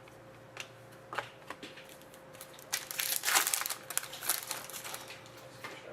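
Crinkling and light clicks of trading cards and their plastic or foil packaging being handled, sparse at first and densest around the middle. A faint steady tone hums underneath.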